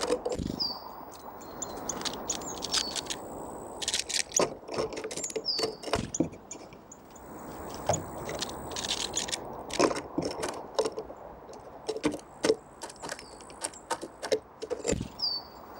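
Small songbirds, tits and nuthatches, feeding on seeds: many sharp taps and cracks from pecking, with a few brief high call notes, over a low steady background rumble.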